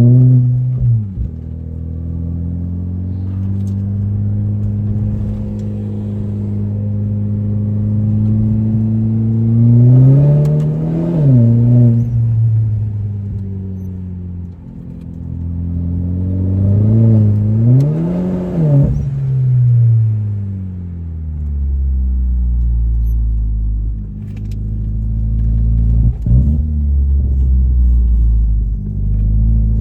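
Renault Clio 4 RS's 1.6-litre turbocharged four-cylinder engine running under way, its note holding steady at first. About ten seconds in it climbs in pitch and drops back, then does so twice more in quick succession past the middle of the stretch, before settling to a lower, steady note.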